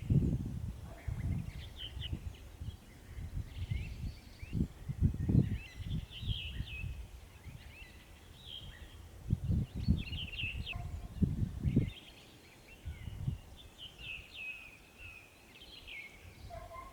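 Several small songbirds singing with short chirps and trills. Loud, irregular low rumbling runs under them for most of the time and stops about two-thirds of the way through.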